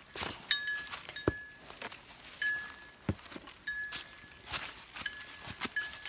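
Repeated short metallic clinks that ring on one high note, mixed with footsteps and scuffs on rock.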